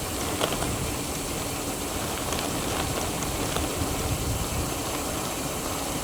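Steady rolling noise of a gravel bike on a forest track: tyres crunching over gravel, with a low rumble of wind on the microphone and a few small clicks.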